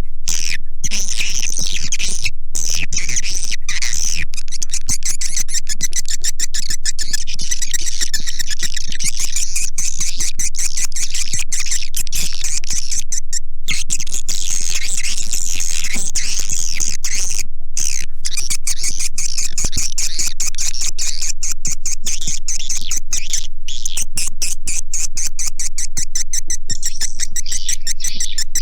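Swiftlet calls: a dense, continuous chorus of rapid twittering chirps and clicks, briefly cutting out a few times. This is a lure recording made to draw swiftlets into a nesting house.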